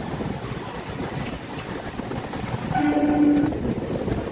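Passenger train running with a steady rumble. About three seconds in, a train horn sounds one short blast of under a second.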